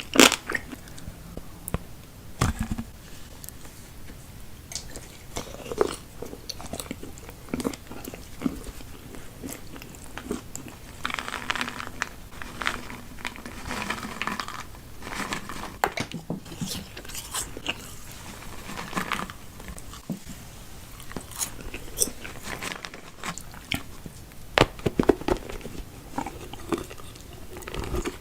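Close-miked eating: a person biting into and chewing crunchy food, with scattered sharp crunches and a denser run of chewing midway.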